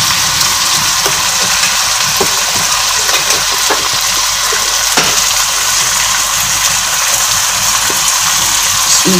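Chicken pieces sizzling steadily as they fry in hot oil in a pot, with a wooden spoon stirring them near the end.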